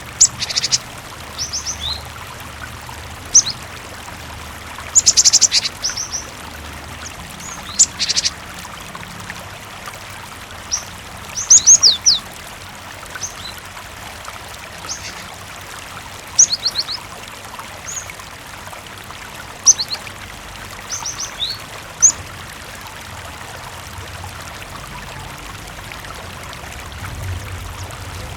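Cinereous tit (gelatik batu) calling in short, high chirps and quick falling notes, some in runs of two to four, scattered irregularly over a steady background of running water.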